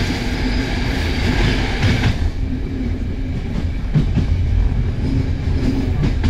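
A 40-year-old passenger train carriage running on the tracks, heard from inside the compartment: a steady low rumble of the wheels with occasional clacks over the rail joints. A higher rushing noise eases off about two seconds in.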